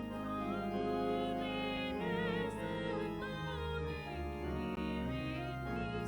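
Classical-style sung music: a voice with strong vibrato holding sustained notes over instrumental accompaniment with deep, held bass notes.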